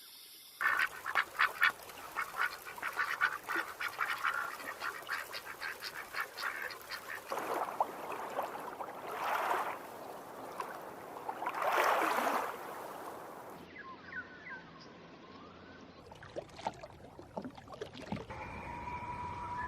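Ducks quacking in a fast run of short calls, then two longer, swelling calls. About 14 seconds in the sound changes abruptly to quieter, scattered bird calls.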